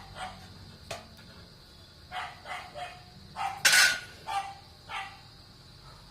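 A dog barking repeatedly in short, separate barks, several in quick succession about two seconds in. About halfway through comes a brief, louder rush of noise.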